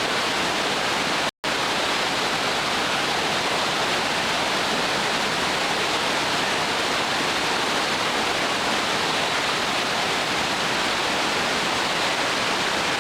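Steady rush of whitewater river rapids, with the sound cutting out completely for a split second about a second and a half in.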